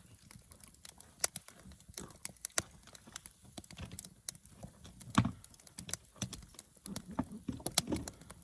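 Scattered light knocks and clicks, irregular, a few a second, with the loudest knock about five seconds in.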